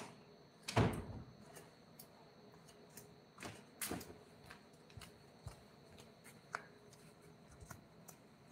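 Scattered knocks and clicks of objects being handled, the loudest about a second in and another a little before four seconds in, with lighter ticks between.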